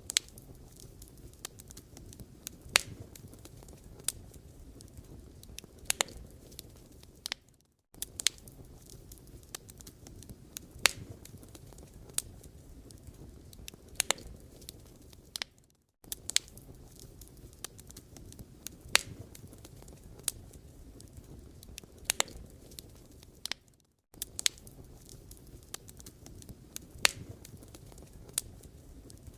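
Wood fire burning: irregular sharp crackles and pops from the burning logs over a steady low rumble. The sound cuts out for a fraction of a second about every eight seconds and starts again, like a short loop repeating.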